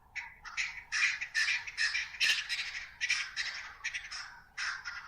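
Birds squawking: a rapid run of short, harsh calls, several a second, that stops just before the end.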